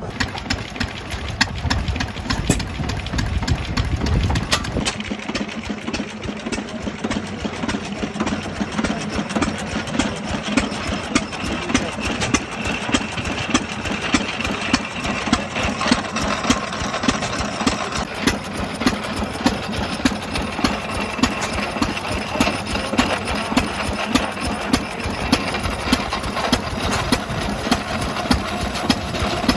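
Antique stationary engine running with a steady rhythm of sharp strokes. The sound changes abruptly about five seconds in, then keeps a regular beat of about two a second.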